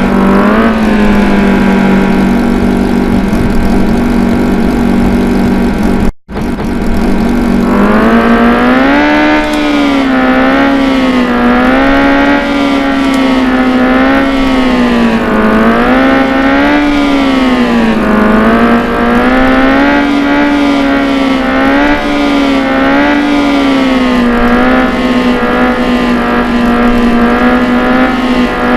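Motorcycle engine running and revving, its pitch rising and falling in slow waves every second or two, with a brief dropout about six seconds in.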